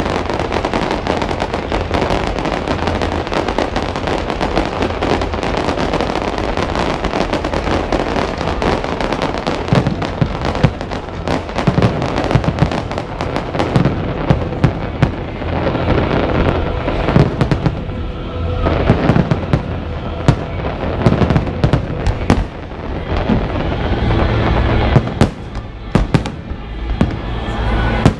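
Aerial fireworks display: dense, continuous crackling of shells bursting, giving way about halfway through to more separate sharp bangs among the crackle.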